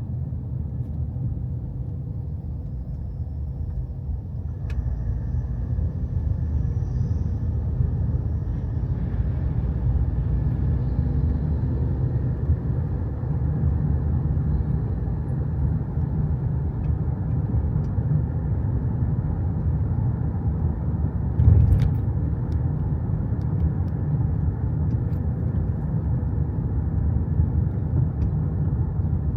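Steady low rumble of a car on the road, with one brief thump about three quarters of the way through.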